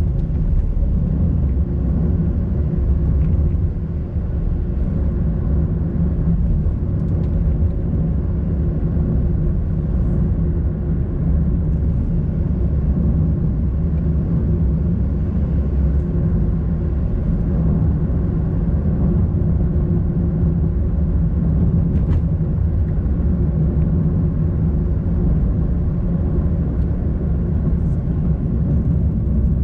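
Car driving along a road: a steady low rumble of engine and tyres, with a faint steady hum riding on it.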